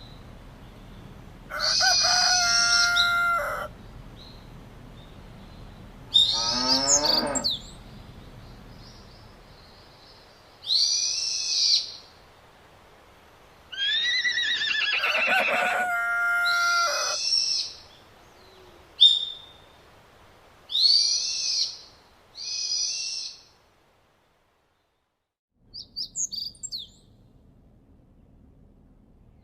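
Birds calling: a series of separate loud calls, some high and arched, some lower with several pitches stacked, a few seconds apart.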